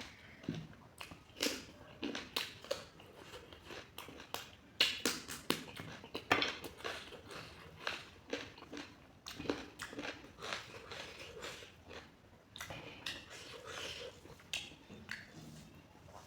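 Close-up eating sounds: a person chewing and biting mouthfuls of chicken curry, with frequent short wet mouth clicks and smacks at an irregular pace.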